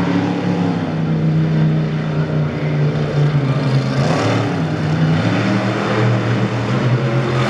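Monster truck engine running loud and continuous, its pitch dropping and rising a few times as the throttle changes.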